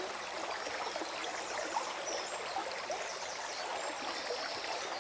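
Forest stream flowing and gurgling steadily.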